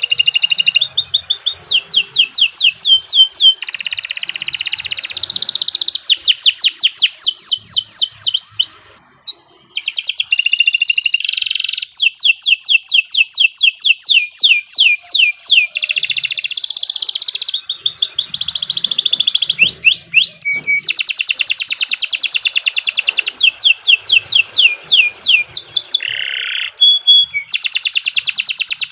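Domestic canary singing long, unbroken song: rapid trills of fast repeated downward-sweeping notes, one tour after another at changing speeds, with a short break about nine seconds in.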